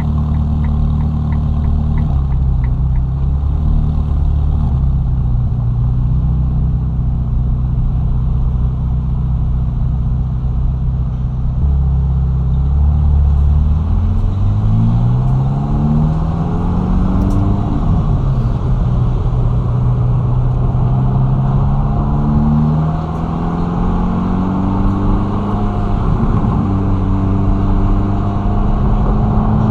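Ferrari Roma's twin-turbo V8 running at low, steady revs, then from about halfway through revving up in several stepped climbs as the car accelerates through the gears, easing off and rising again near the end. A light, fast ticking sounds in the first few seconds.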